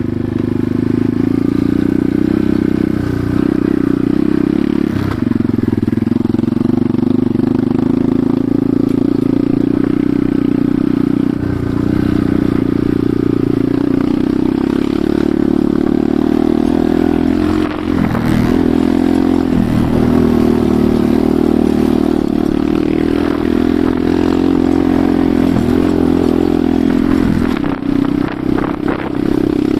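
Enduro motorcycle engine running steadily while riding, its pitch dipping briefly several times.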